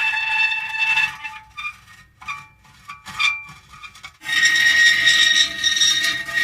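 Metal creaking: long squealing creaks held on a few pitches, broken by a stretch of short, quieter creaks from about one second in, then another long creak starting about four seconds in.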